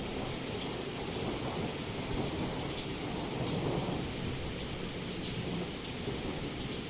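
Heavy rain pouring steadily against a window, with a low rumble of thunder underneath and a few sharp drip taps now and then.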